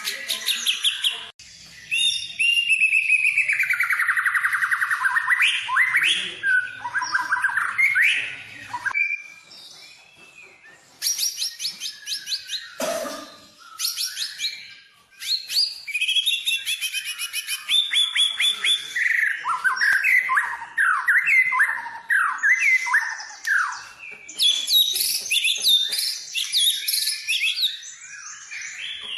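White-rumped shama (murai batu) singing a long, varied song of gliding whistles and fast rattling trills, in phrases broken by brief pauses about a third of the way and halfway through.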